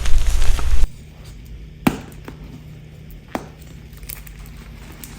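Block of gym chalk being crushed and crumbled: dense crunching for about the first second, then quiet with a few single sharp cracks.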